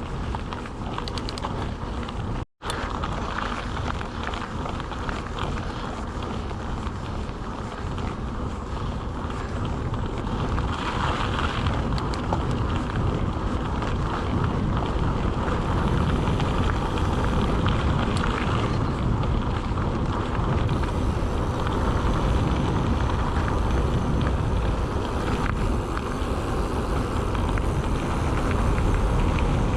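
Mountain bike riding over a rough trail: tyres rumbling and the bike rattling, with wind buffeting the microphone. The sound cuts out for a moment about two and a half seconds in, and it grows louder about halfway through.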